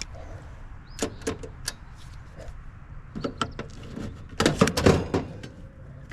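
Hand work on a heat pump's capacitor and wiring: scattered clicks and knocks, with a busier run of rattling and clatter about four and a half seconds in.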